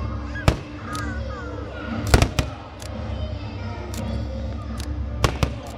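Aerial fireworks shells bursting: a string of sharp bangs, the loudest a quick cluster about two seconds in, with music underneath.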